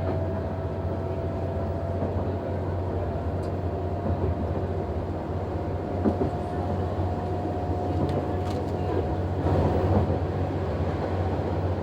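Noto Railway NT100 diesel railcar under way, heard from the driver's cab: a steady low engine drone with a whine that rises slowly in pitch as the railcar gathers speed, and a few sharp clicks from the wheels on the track.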